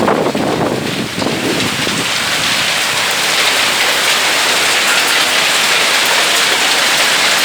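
Heavy downpour with small hail, a loud, dense, steady hiss of rain pelting the ground. Wind gusts rumble on the microphone during the first couple of seconds.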